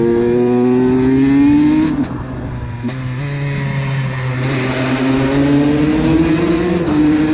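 Honda CR125 two-stroke single-cylinder engine pulling under throttle, its pitch rising, easing off about two seconds in, then pulling up again through the second half.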